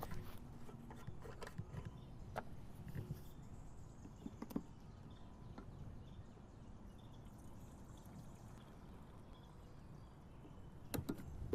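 Gasoline being poured from a can into a gas lawn mower's fuel tank, a faint trickle, with a few light knocks of the can and cap.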